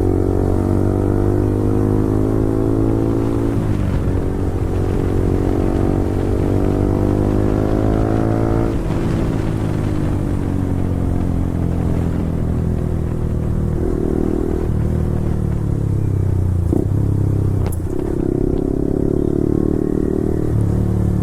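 Yamaha R15 V4's 155 cc single-cylinder engine through an Akrapovic full-system exhaust, ridden and pulling up through the gears. The note climbs, drops at a shift about four seconds in, and climbs again. It then falls away as the throttle is closed about nine seconds in, picks up and eases off a few more times near the end.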